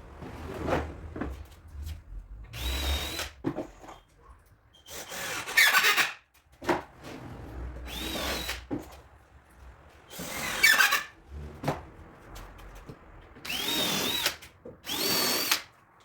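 Power drill boring into MDF in about six short runs of roughly a second each, its motor whine dipping in pitch as the bit bites, with knocks of handling between runs.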